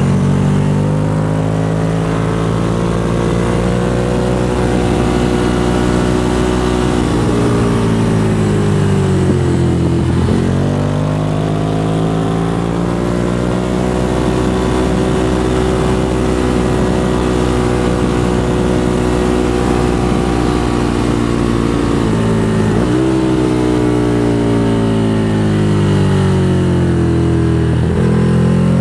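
Ducati motorcycle engine heard while riding, its pitch slowly falling as the bike rolls off, then climbing sharply as it picks up again about ten seconds in and again a little over twenty seconds in, with another rise near the end.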